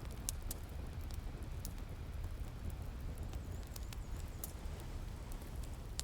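Wood fire crackling, with sharp pops every second or so, over a steady low rumble of ocean waves.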